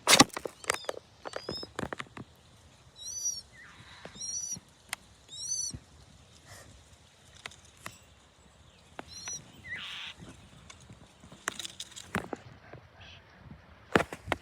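Baby birds peeping: four bursts of thin, high-pitched chirps, three in quick succession about a second apart and one more a few seconds later. Sharp knocks and rustling come near the start and again near the end, the loudest right at the start.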